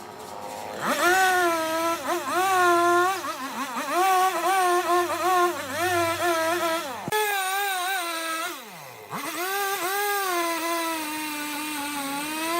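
Motor of a woodworking power tool spinning up about a second in and running with a wavering pitch as it cuts. It winds down briefly about two-thirds through, then spins up again.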